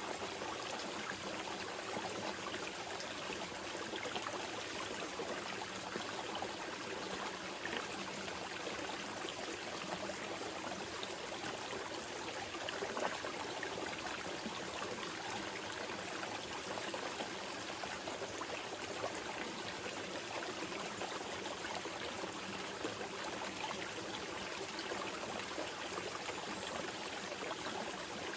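Small mountain river flowing steadily over rocks, a continuous rushing and trickling water sound.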